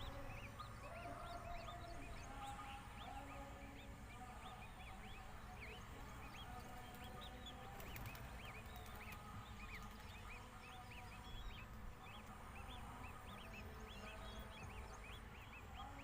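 Birds calling: many short, high chirps overlapping throughout, with some lower held calls, over a low background rumble.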